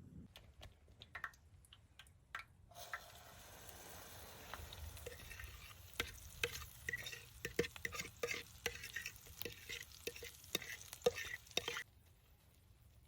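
Food frying in a pan while it is stirred, with a spoon clicking and scraping against the pan over the sizzle. The sizzle starts about three seconds in and cuts off suddenly near the end.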